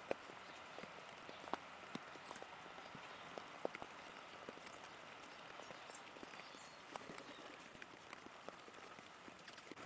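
Rain dripping from wet trees: irregular sharp drip taps over a faint steady patter of light rain.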